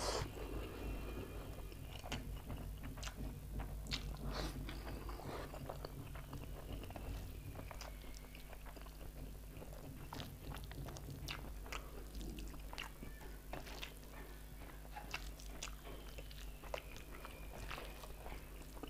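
Close-up eating sounds of a person eating egg curry and rice by hand: wet chewing, biting and lip smacks in many short, irregular clicks, with soft squishes of fingers mixing rice into the curry on a metal plate. The loudest bite comes right at the start.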